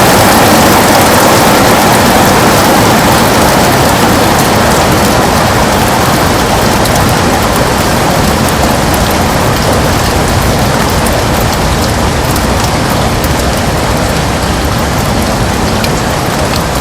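Heavy rain pouring steadily on a window: a dense hiss with many fine drop ticks, easing slightly in loudness over the stretch.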